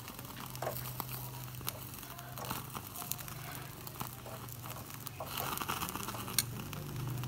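Crinkling and tearing handling noises with scattered sharp clicks, over a steady low hum.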